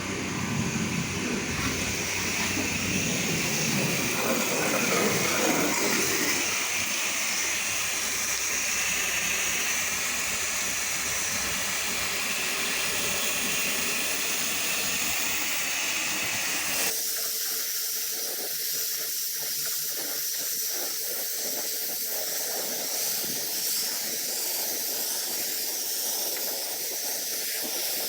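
Pressure washer spraying water in a steady hiss, rinsing down the house. About two-thirds of the way through, the low rumble under the spray cuts out abruptly and the hiss carries on.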